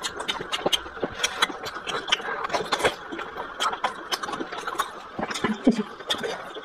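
Close-up chewing of a steamed dumpling: a run of irregular wet mouth clicks and smacks, with a short hum about five and a half seconds in.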